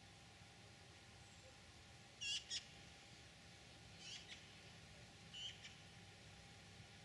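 A small bird calling in the reeds: three short, high two-note calls, the first about two seconds in and the loudest, then two more a second or so apart.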